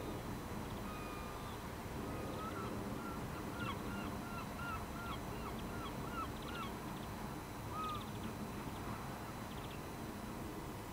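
A bird calling repeatedly: a single call about a second in, then a run of short, evenly spaced calls at the same pitch, about two a second for some four seconds, and one more call near the end. A steady low rumble runs underneath.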